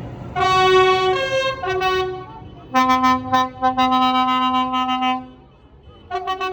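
A loud vehicle horn playing a short tune of single held notes: a few shorter notes, then one long low note, then a brief pause before another note begins near the end.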